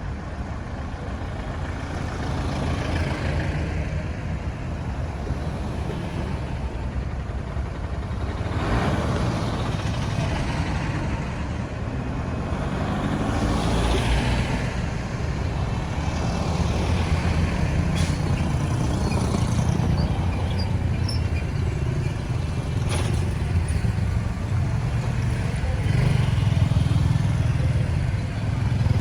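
Road traffic: motor vehicles (cars, trucks and motorbikes) running steadily, with several passing by; they swell about a third of the way in, again about halfway, and loudest near the end.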